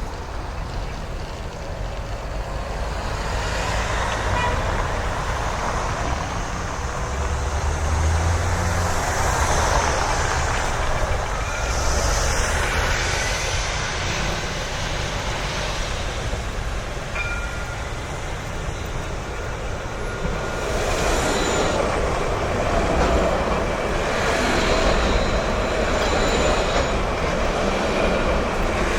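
City street traffic: vehicles passing one after another, the noise swelling and easing several times.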